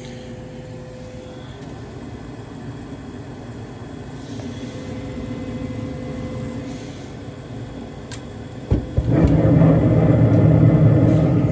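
Propane furnace starting up: the draft inducer motor hums steadily, a click comes about eight seconds in, and just after it the burners light with a sudden whoosh and keep burning loudly.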